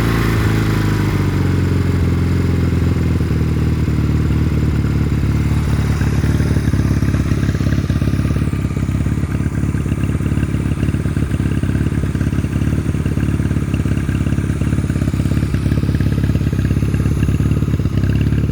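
1989 Honda Rebel CMX250's air-cooled parallel-twin engine running on a little choke: the revs fall and settle during the first few seconds, then it idles steadily.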